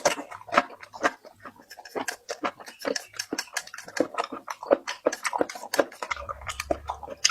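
Close-up chewing and lip-smacking of a person eating, a rapid run of wet clicks and smacks several times a second. A low hum joins near the end.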